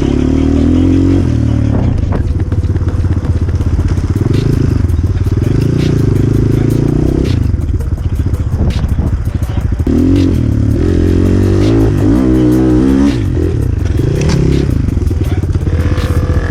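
Enduro motorcycle engine revving up and down as the throttle is worked on rough off-road ground, with a fast climb in revs about twelve seconds in. Occasional clattering knocks from the bike over bumps.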